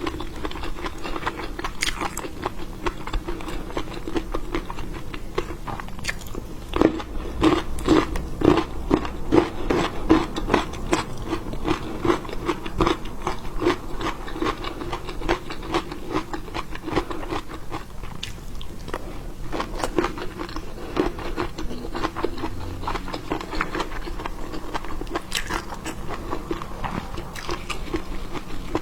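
A person chewing and biting seafood close to the microphone, a dense run of crunches and quick clicks, loudest about seven to eleven seconds in.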